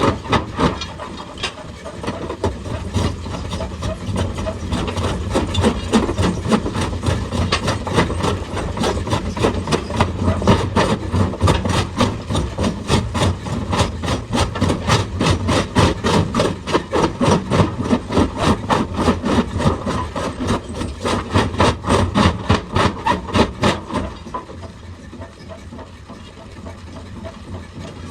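Excavator-mounted hydraulic rock breaker hammering stone in a rapid, steady rhythm of blows over the excavator's running engine. The hammering stops about 24 seconds in, leaving the engine running.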